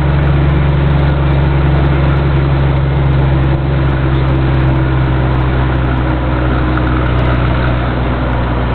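Scania truck's diesel engine running steadily under load on an uphill mountain grade, with a slight drop in loudness about three and a half seconds in.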